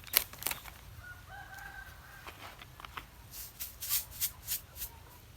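A rooster crows once, a single held call beginning about a second in. Around it come a few sharp clicks and then a quick run of short scraping strokes, about three or four a second.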